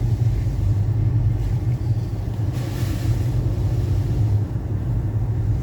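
Car driving, heard from inside the cabin: a steady low drone of engine and tyres on the road, with a brief swell of hiss about two and a half seconds in.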